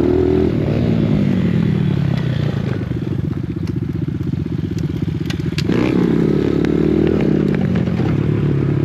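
Dirt bike engine running, its pitch rising and falling with the throttle. It settles to a lower, even putter for a couple of seconds in the middle, then revs up again.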